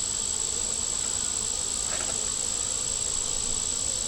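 Honey bees buzzing steadily around an open hive, under a constant high-pitched whine.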